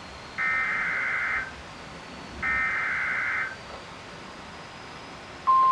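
NOAA Weather Radio emergency alert: two buzzy bursts of warbling data tones, each about a second long and a second apart, then a loud steady single-pitched alert tone that starts near the end. It is the header that announces a severe thunderstorm warning broadcast.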